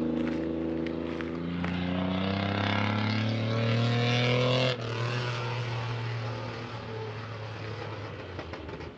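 Pontiac Bonneville with a loud exhaust accelerating, its engine note climbing steadily for about three seconds, then dropping abruptly when the throttle comes off, and carrying on lower while it fades away.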